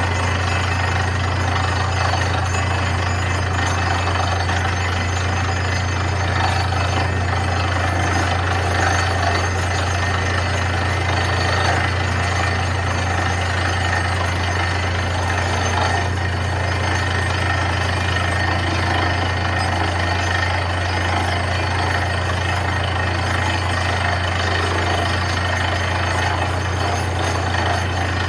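Truck-mounted borewell drilling rig running steadily, its engine and drilling gear making a constant low hum under a dense mechanical noise.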